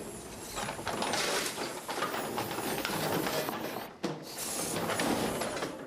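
Home-built robot's motors and gears whirring and clattering as it malfunctions, with a brief break about four seconds in.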